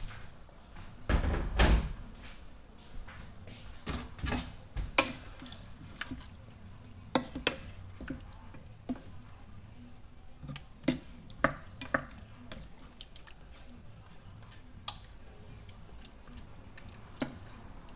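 Water dripping, with irregular clicks and knocks at a sink; a louder clatter comes about a second in.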